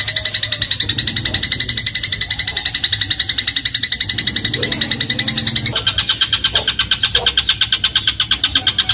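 Eurasian tree sparrow giving a fast, continuous chattering trill of high notes, about ten a second; the trill drops slightly in pitch about six seconds in.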